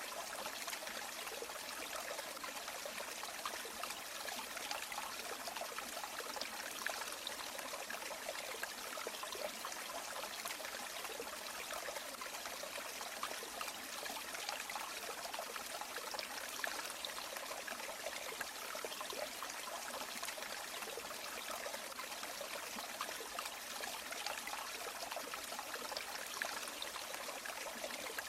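River water flowing steadily: a continuous rushing, trickling hiss, bright and even, with almost no low rumble.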